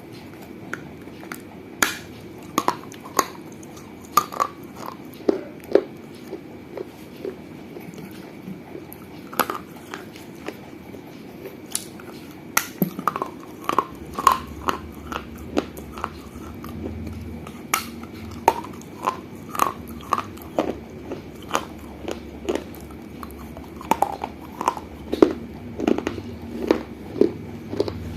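Pieces of a small fired-clay money box (gullak) being bitten and chewed: sharp, crisp crunches come at an irregular pace, with a sparser stretch about a quarter of the way in.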